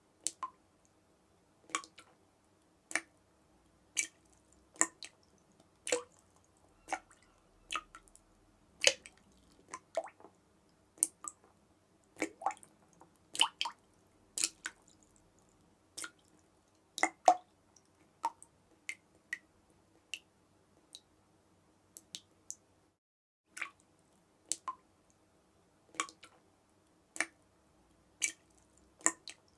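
Water dripping, single drops falling at uneven intervals about one to two a second, over a faint steady low hum.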